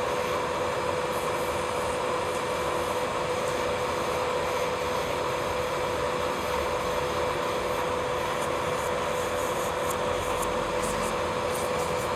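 Electric nail drill (e-file) running at a steady speed, a constant whine over a hiss, as the bit works around the cuticle and over the nail surface.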